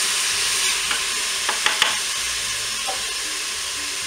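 Pieces of Toulouse sausage and frozen onions sizzling in hot oil in a Cookeo multicooker's bowl on its browning setting. A wooden spoon stirs them, with a few sharp clicks about a second and a half in.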